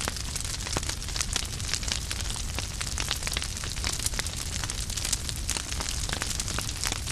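Wood fire burning, with frequent irregular sharp crackles and pops over a steady hiss and low rumble of the flames.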